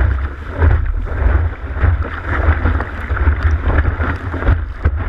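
Strong wind buffeting the microphone in gusts, over water rushing and splashing against a windsurf board sailing in 15–20 knot wind.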